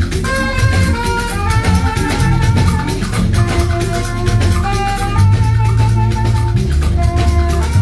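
Upbeat band music: drums and shakers keeping a steady rhythm under plucked guitar lines and a heavy bass line.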